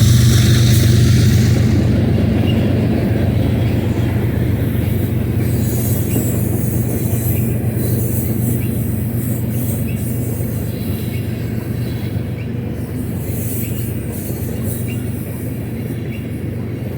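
Freight train cars rolling past on the main line: steady rumble of wheels on rail under a low drone that slowly fades, with short faint wheel squeaks about once a second. The hiss in the first couple of seconds dies away.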